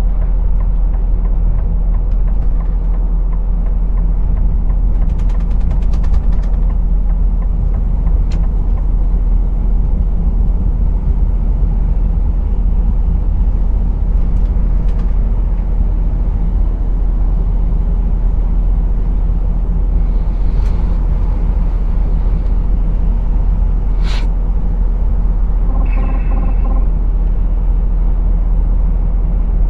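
Lorry engine and road noise heard from the driver's seat: a steady low rumble, with a few sharp clicks and a short pulsing tone about 26 seconds in.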